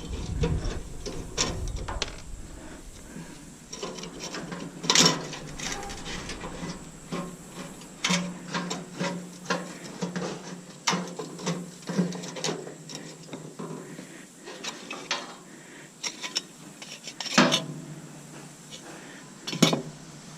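Hand tools and metal parts of a stainless steel coffee maker being worked while it is dismantled: irregular clicks, scrapes and small metallic knocks, with a few louder knocks about five seconds in and near the end.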